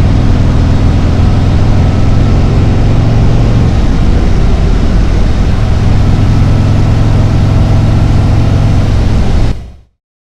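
Harley-Davidson Road Glide's V-twin engine running steadily while riding, with wind and road noise, fading out quickly near the end.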